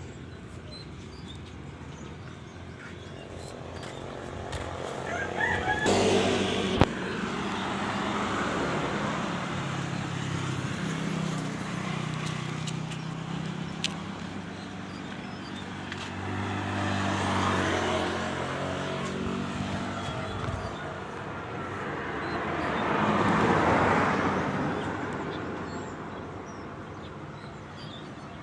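A motor vehicle's engine running, growing louder and then fading away three times as it passes or rides by, with its pitch shifting as it goes.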